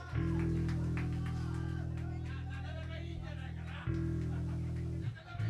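Amplified guitar and bass holding low sustained notes between songs, the pitch shifting twice near the end, with faint crowd voices over them.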